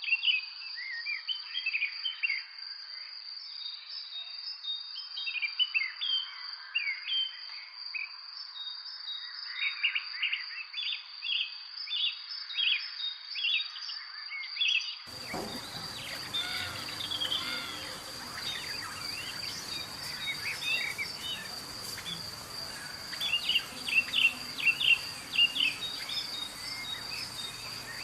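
Small birds chirping in quick runs of short, repeated calls over a steady, high-pitched insect drone. About halfway through, a fuller background hiss joins in.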